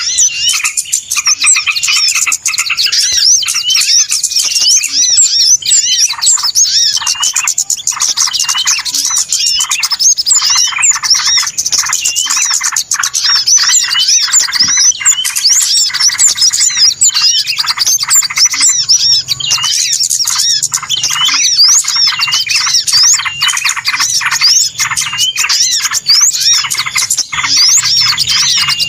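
Bird-lure recording of a busy chorus of many small birds, a dense, unbroken stream of high chirps and twitters overlapping with no pause.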